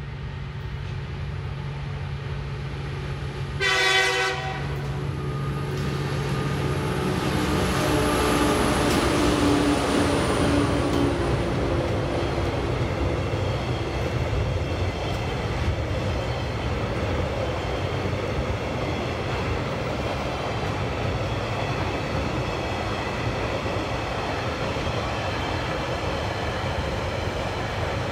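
TasRail diesel locomotives working hard uphill. A short horn blast sounds about four seconds in, then the locomotive engines pass with their pitch sliding down. A long string of container and empty log wagons follows, rolling past with steady wheel and rail noise.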